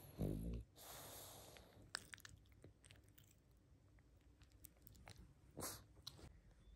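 A sleeping pug gives a short low snort near the start, then a breath out. Scattered small mouth clicks and smacks follow, with another short breath near the end.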